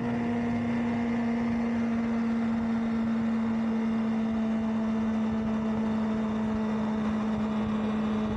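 Honda CBR650R's inline-four engine running at a steady cruising speed while the motorcycle is ridden, its even drone holding one pitch, under a steady rush of wind and road noise.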